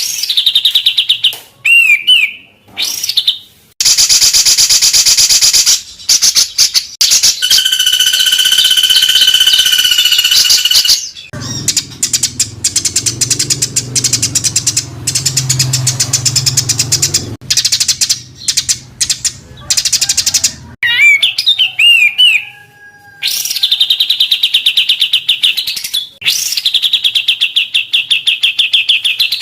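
Spliced recordings of songbirds singing rapid, harsh trills and fast repeated chattering notes, the dense 'tembakan' (rapid-fire) phrases of a masteran tutor track for caged songbirds. A low hum sits under the song for several seconds in the middle.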